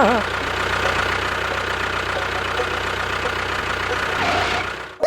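An engine running steadily at idle with a low, even beat, cutting off abruptly near the end.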